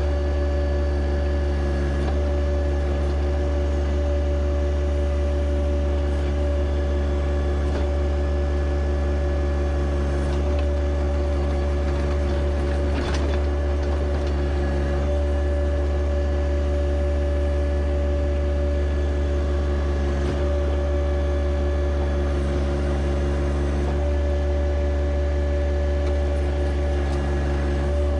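John Deere 1025R compact tractor's three-cylinder diesel engine running steadily at a constant speed, with one faint knock about halfway through.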